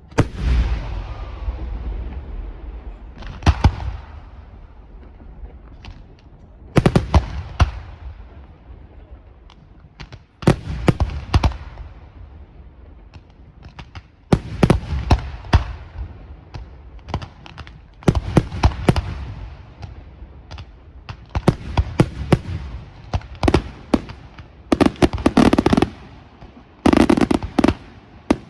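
Fireworks display: a volley of sharp bangs every three to four seconds, each volley a rapid cluster of cracks followed by a rumbling echo that dies away.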